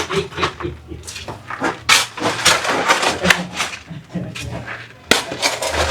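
A series of irregular sharp knocks and scrapes.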